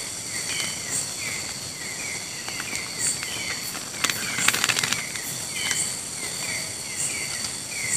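Tropical forest ambience: insects droning steadily at several high pitches, with a short falling call repeated about twice a second. A brief spell of clicking comes about four seconds in.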